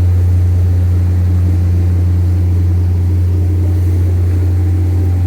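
Steady, loud, deep engine drone with a constant low hum, as heard from aboard a running vehicle.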